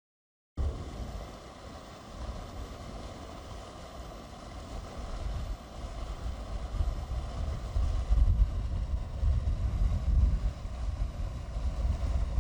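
Wind buffeting the microphone: a rough, gusting low rumble that starts suddenly and gets stronger about eight seconds in.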